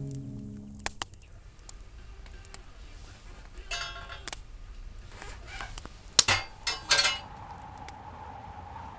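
Clinks and knocks of cookware and utensils being handled, with a louder clatter of several sharp knocks about six to seven seconds in, as background music fades out at the start.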